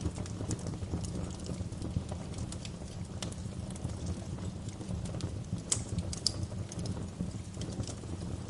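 Wood fire crackling in a fireplace: a steady low rumble of burning with irregular sharp pops and snaps, two louder pops a little past the middle.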